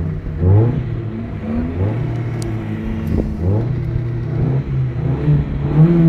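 A Corsa's engine being revved, heard from inside the car: the pitch climbs and drops back about four times in quick blips.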